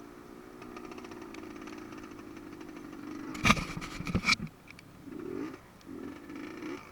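Enduro dirt bike engine running steadily, then two loud sharp knocks about three and a half and four seconds in, followed by short blips of the throttle.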